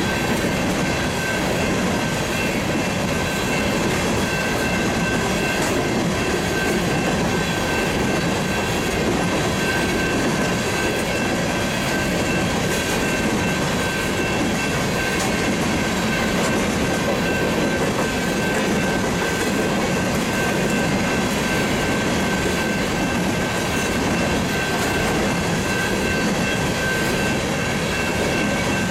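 Empty coal hopper cars of a long freight train rolling past: a steady rumble and rattle of steel wheels on rail, with steady high-pitched squealing tones over it.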